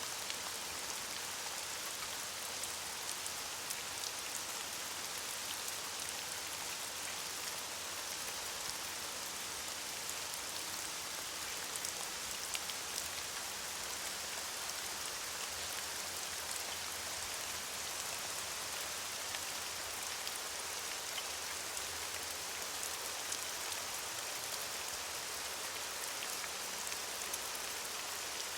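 Steady rain falling, an even hiss peppered with many small drop ticks.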